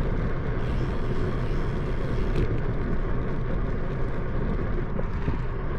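Steady rushing noise of a moving bicycle ride: wind on the microphone mixed with road noise, with no distinct events.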